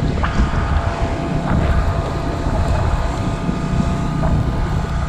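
Portable generator engine running at a steady speed, powering the house during a power outage, with some wind noise on the microphone.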